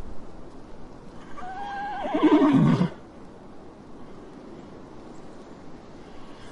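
A horse whinnying once: a quavering neigh lasting about a second and a half that drops in pitch at the end.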